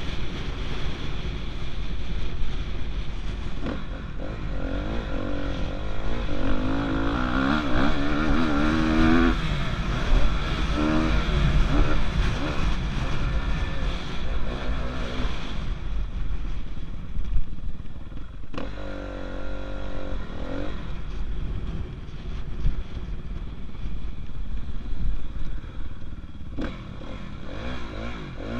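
Motocross dirt bike engine running hard, its pitch rising and falling as the throttle opens and closes.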